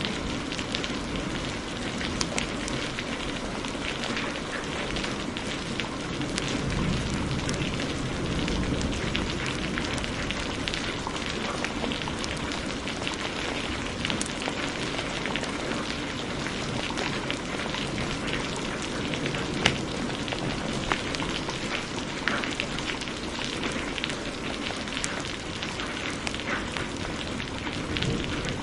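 Heavy rain hissing steadily, mixed with a crackling wood fire that gives many small sharp pops, one louder pop about two-thirds of the way through.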